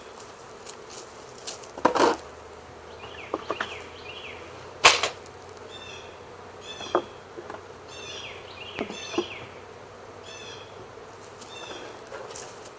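A large honey bee swarm buzzing steadily, with a bird chirping over and over in short descending notes. A few sharp knocks cut through, the loudest about five seconds in.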